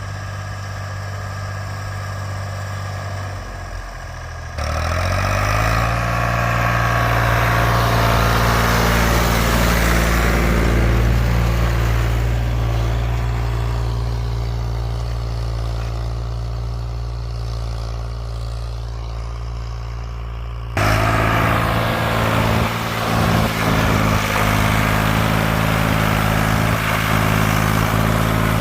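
Ford 4000 farm tractor engine running while plowing. A few seconds in it grows suddenly louder and its pitch sweeps up as the engine is opened up, and later the sound changes abruptly.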